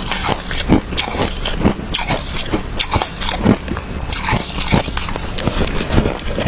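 Chewing crunchy shaved ice close to the microphone: an irregular run of sharp crunches, several a second.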